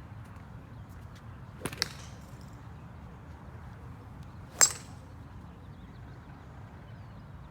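Golf clubs striking balls at a driving range: two sharp clicks with a brief metallic ring, a fainter double one near two seconds in and a louder one midway, over a steady low background rumble.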